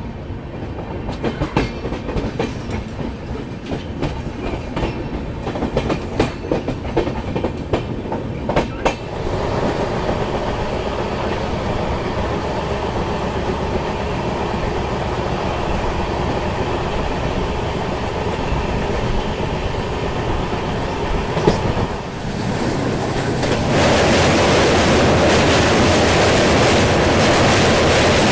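Indian express passenger train running, heard from an open coach door: the wheels click sharply over rail joints and points for the first several seconds, then settle into a steady rumble. About 24 seconds in, the rumble turns clearly louder and brighter as the train rolls onto a steel truss bridge.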